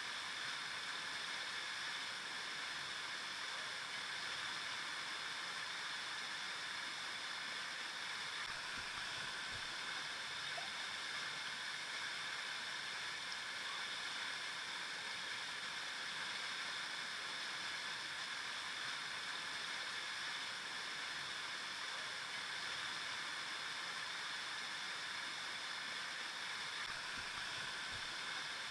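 River water flowing over rocks: a steady, even rushing with some gurgling.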